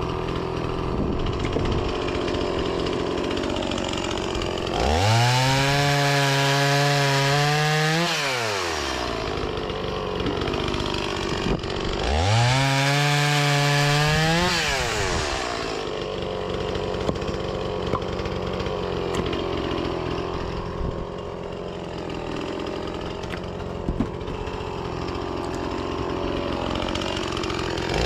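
Two-stroke petrol chainsaw idling, then twice revved to full throttle for about three seconds at a time as it cuts through fruitwood firewood on a freshly sharpened chain, dropping back to idle after each cut. It revs up again at the very end.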